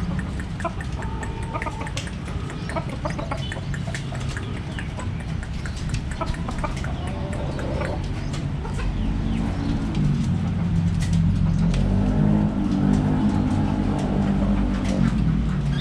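Birds chirping and chattering in many short calls over a steady low rumble, which grows louder about nine seconds in.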